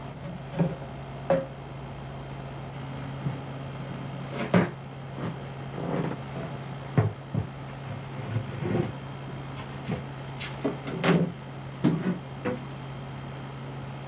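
Irregular wooden knocks and clunks as floorboards and tools are handled, a dozen or so at uneven spacing, over a steady low hum.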